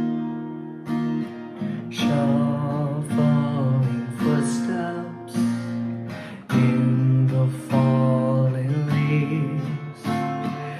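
Acoustic guitar strumming chords in a folk song's instrumental intro, before the vocals come in.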